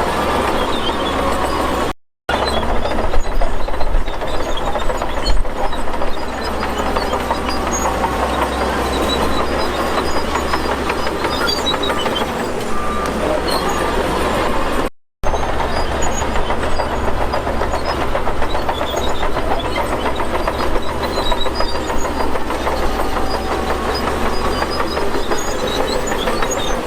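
Heavy diesel earthmoving machinery running under load, with a steady low engine drone and continuous metallic clatter. The sound drops out briefly twice, about two seconds in and again about fifteen seconds in.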